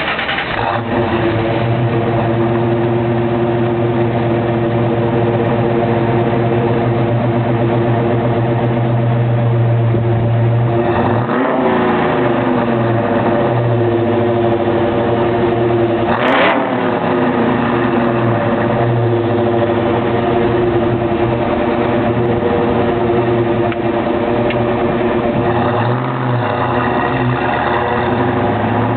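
1995 Mustang Cobra's 5.0 V8 idling through an off-road H-pipe with stock manifolds and stock catback, blipped several times: a rev about eleven seconds in, a sharper one around sixteen seconds, a smaller one around twenty-six seconds, and another starting to rise at the very end.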